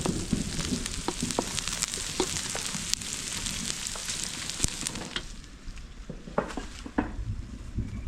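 Food frying in hot oil in a pot, a steady sizzle with scattered clicks of stirring; the sizzle drops away about five seconds in.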